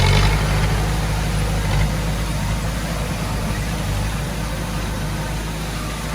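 Diesel engine of heavy earthmoving equipment running steadily, a little louder at the start and easing slightly after.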